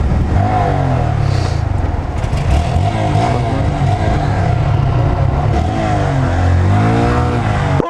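Honda Grom's small single-cylinder engine being ridden, its revs rising and falling several times.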